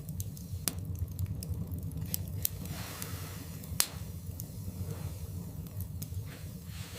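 Wood fire burning in a fireplace: scattered sharp crackles and pops over a steady low rumble, with one louder pop a little past halfway.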